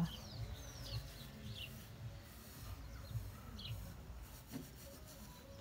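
A few scattered bird chirps, each a short falling note, over a faint low outdoor rumble.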